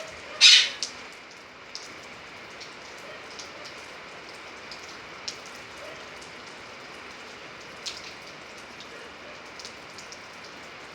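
Steady rain falling, with individual drops ticking sharply every second or so. A brief louder rush of noise, the loudest sound here, comes about half a second in.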